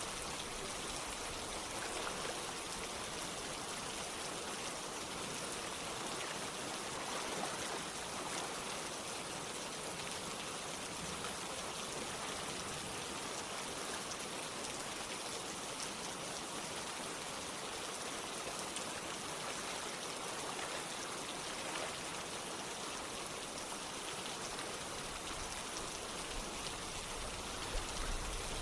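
Rain falling together with running water: a steady, even hiss with faint scattered drop taps.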